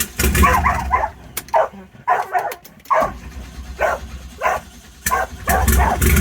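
A dog barks repeatedly in short sharp barks over a low rumble. About five seconds in, a steady engine sound takes over: the Volkswagen 1.8 turbo engine running after a cold start.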